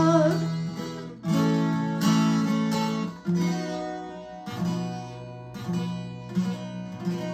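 Acoustic guitar strumming chords in an instrumental break of a song, after a sung line ends on a held note.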